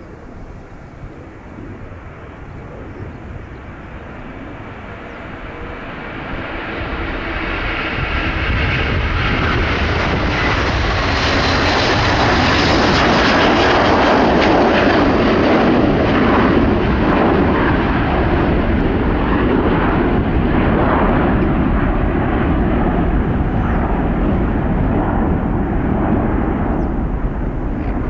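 Airbus A330-300 twin-engine jet airliner taking off. Its engine noise swells over the first several seconds, peaks with a hissing high edge about halfway through, and then settles into a heavy low rumble as it climbs away.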